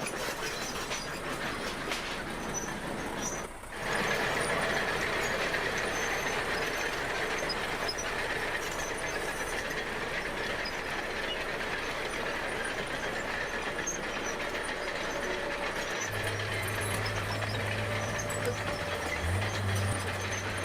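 Bulldozer working, its diesel engine running steadily with the clatter of steel tracks. The sound drops away briefly about three and a half seconds in, and a steady low hum joins near the end.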